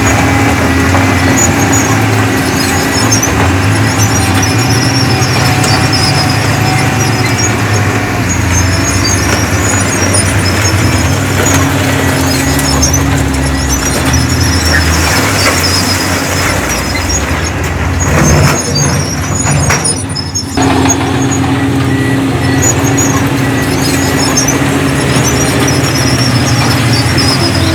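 Crawler bulldozer's diesel engine running steadily under load, with repeated short high-pitched squeals from its steel tracks. About two-thirds of the way through, the engine drops briefly and a few knocks are heard before it picks up again.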